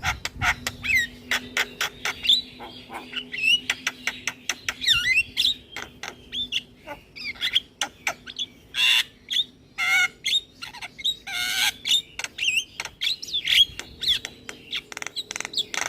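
Javan myna singing a long, busy song: rapid clicks and harsh squawks mixed with short whistled notes that rise and fall.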